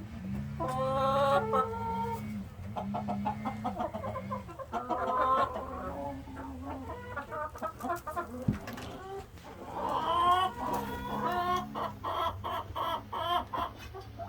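Chickens clucking, with several longer drawn-out calls, over a steady low hum.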